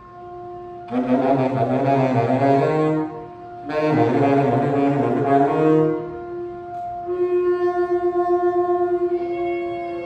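Saxophones improvising free jazz: held tones, then two loud, dense low blasts about a second and four seconds in, then a sustained note pulsing rapidly.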